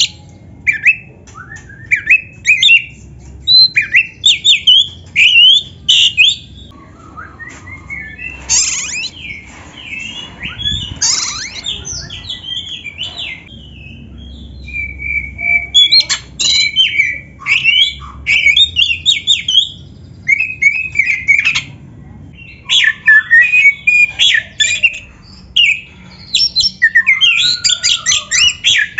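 Oriental magpie-robin singing a loud, varied song in quick bursts of sliding whistles and harsh squawky notes, phrase after phrase with short pauses, including one held whistle about halfway through.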